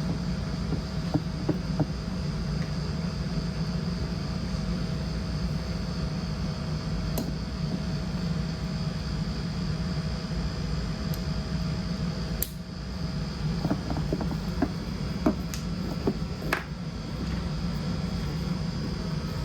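Steady low machine hum, like a fan or air conditioner running, with a faint steady whine. Scattered light clicks and taps come mostly in the second half.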